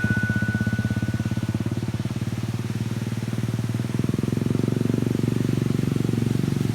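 Motorcycle engine running as the bike is ridden, a fast, even pulse of firing strokes that grows louder about four seconds in.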